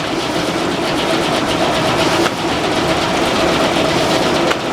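Frick sawmill running: a steady mechanical din from the circular saw and its drive, with a constant hum and fine rapid ticking.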